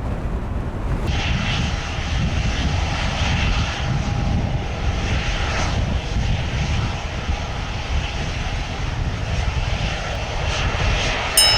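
Jet airliner engines running, a hissing whine with faint steady tones coming in about a second in over a constant low rumble. Right at the end a sudden cluster of steady electronic tones cuts in.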